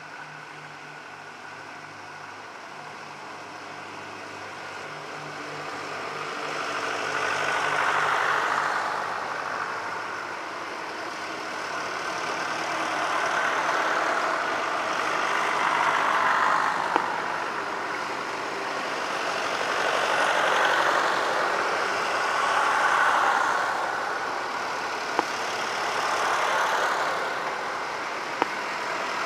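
Tractor engines running as a line of tractors drives past one after another, each growing louder as it comes by and fading after, starting about a quarter of the way in. Steady engine hum before the first one arrives, and a few sharp clicks.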